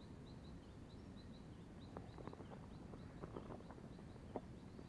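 A bird chirping: short, high notes repeated about three times a second, faint over quiet outdoor ambience. A few light clicks and taps come around the middle.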